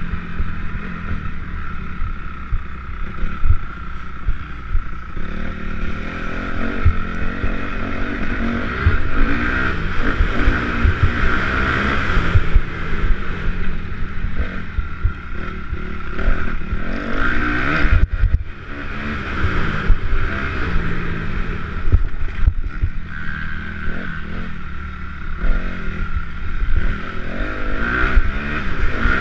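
Motocross bikes racing, their two-stroke and four-stroke engines revving up and down as they pass, with wind buffeting the microphone.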